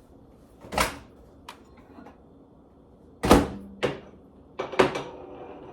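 A few sharp knocks and thumps, the loudest about three seconds in: a microwave oven door being opened and a stoneware dish being taken out and handled.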